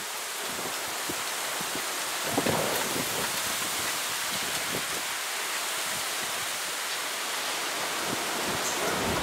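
Steady rain of a thunderstorm hissing, with close drops dripping and splashing, one louder splash about two and a half seconds in.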